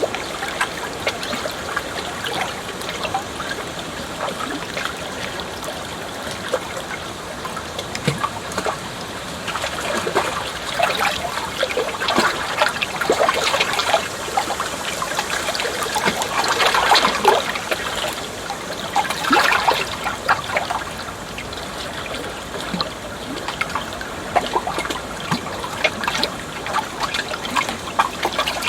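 Water trickling and splashing steadily, a flowing stream of many small splashes, swelling louder in the middle and easing off again.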